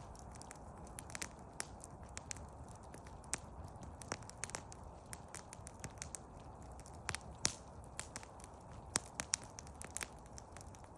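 Wood crackling in a campfire: irregular sharp pops and snaps over a steady low rumble, the loudest snap about seven and a half seconds in.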